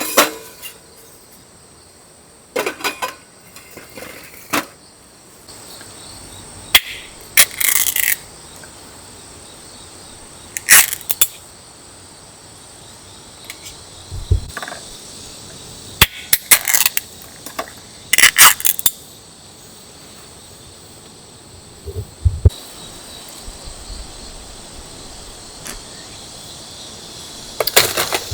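Crickets chirping steadily, with scattered short knocks and clatters of objects being handled.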